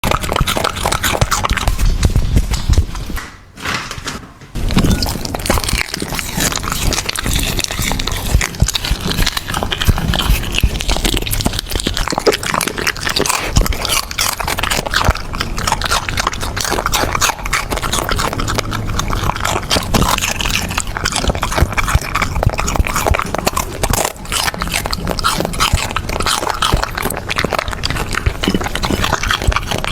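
Dachshund puppy crunching and chewing a carrot, close to the microphone: a dense run of loud, crisp crunches and smacks, with a short pause about three seconds in.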